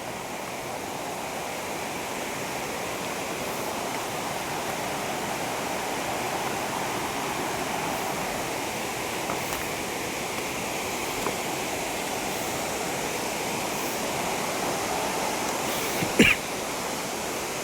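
Small forest waterfall: a steady rush of falling and splashing water, slowly getting a little louder. A brief sharp sound cuts through about a second before the end.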